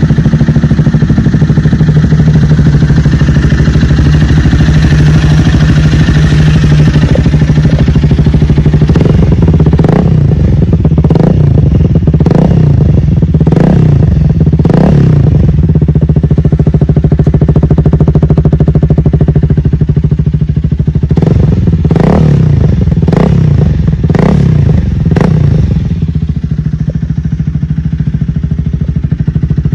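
Honda Rebel 300's single-cylinder engine idling through an aftermarket Vance Hines-style dual exhaust, then revved in two series of short throttle blips, each rising and falling quickly, before it settles back to idle near the end.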